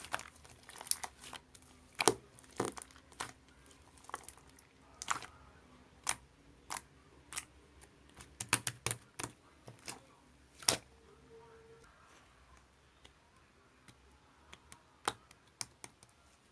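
Slime being pressed and squished by hand, giving sharp clicks and pops about once or twice a second; after about eleven seconds they thin out to a few scattered clicks.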